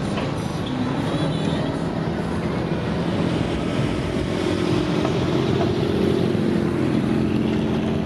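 Car engine running as a car rolls slowly past; its low hum grows louder over the second half.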